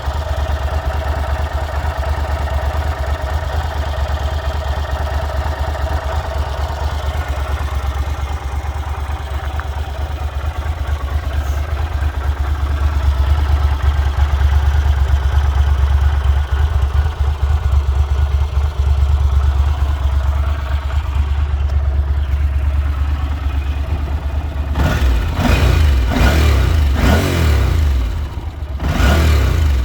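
Yamaha TDM 850 parallel-twin motorcycle engine idling steadily. About 25 seconds in, the throttle is blipped several times, and the pitch rises and falls with each rev.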